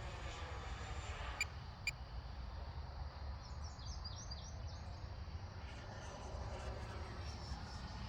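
Gusty wind rumbling steadily on the microphone, with two sharp clicks about a second and a half in and birds chirping briefly around the middle.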